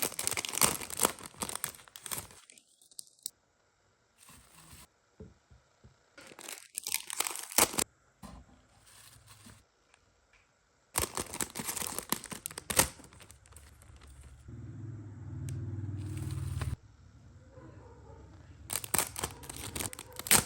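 Plastic packaging crinkling and tearing in several separate bursts as a small order is packed. A low hum runs for about two seconds in the middle.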